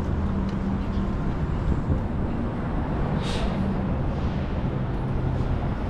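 City street traffic: a steady low engine rumble from vehicles close by, with a short hiss a little over three seconds in.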